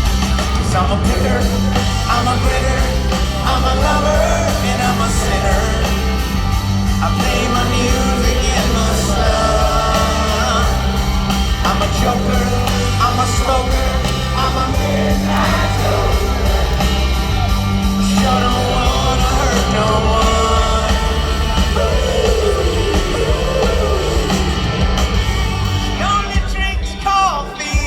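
Live rock band playing with a lead vocal over a steady bass line, heard through a stadium PA, with yells from the crowd.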